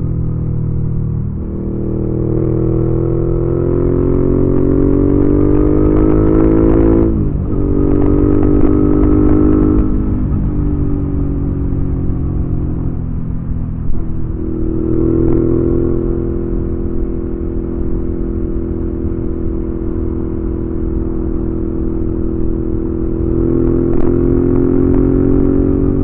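2019 Suzuki V-Strom 650's 645 cc V-twin running through a Delkevic aftermarket exhaust on the move. The engine pulls up through the revs for several seconds, its pitch drops sharply at an upshift about seven seconds in, and it dips again twice before settling into a steady cruise for the second half.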